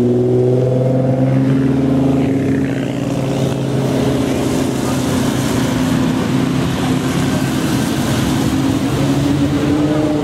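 Nissan GT-R's twin-turbo V6 running as the car drives slowly, its revs rising about a second in and then holding steady.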